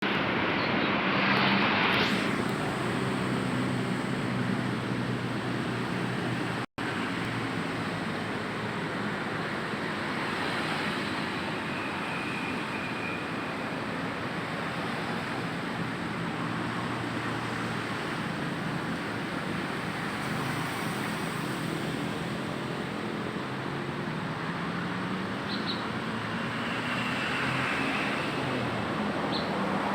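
Traffic noise: motor vehicle engines running steadily, with one engine rising in pitch over the last several seconds as it speeds up.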